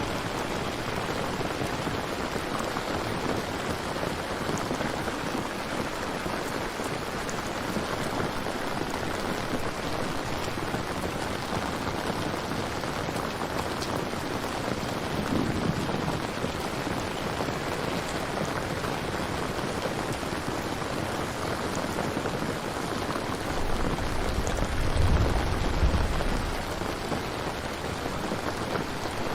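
Steady heavy rain falling, with low rumbles of thunder: a brief one about halfway through and a louder, deeper one near the end.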